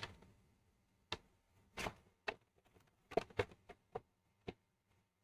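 A dozen or so light, sharp clicks and taps at irregular intervals, with a short scraping sound about two seconds in and a quick cluster of taps a little past three seconds.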